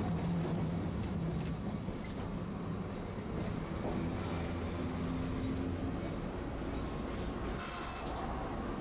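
Tosaden streetcar running along the track: a steady low motor hum and rumble of wheels on rail, heard from aboard the tram. A brief high wheel squeal comes near the end.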